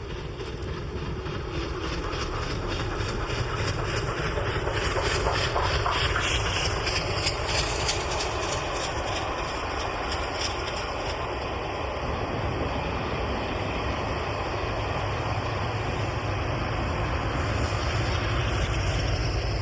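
Steam locomotive working a train hard up a steep gradient, its exhaust beats growing louder over the first few seconds and strongest a few seconds in, over a steady rumble of the train on the rails.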